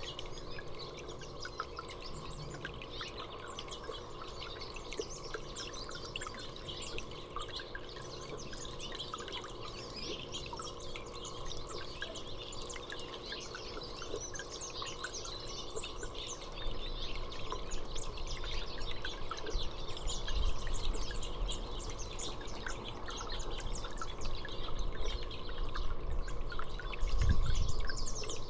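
Many small birds chirping and calling continuously, a steady stream of short high chirps over a faint steady hum. A low rumble builds in the last third and is loudest near the end.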